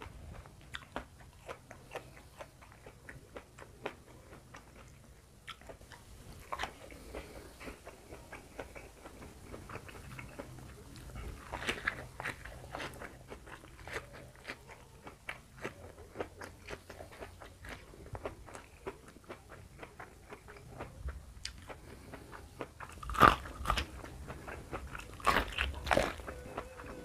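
A person chewing and crunching raw vegetables close to the microphone, with many small crisp clicks from the chewing. A few louder crunching bites come about halfway through and near the end.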